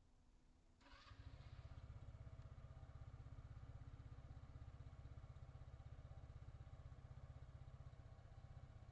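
Car engine starting about a second in, then idling with a steady low, fast-pulsing rumble heard from inside the cabin.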